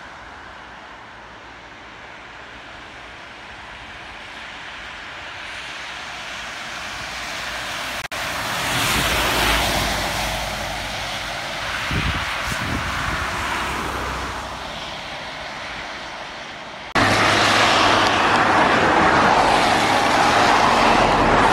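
A car passing on a wet road, its tyres hissing as it approaches, goes by about nine seconds in and fades. About seventeen seconds in, a sudden loud, steady rushing noise takes over.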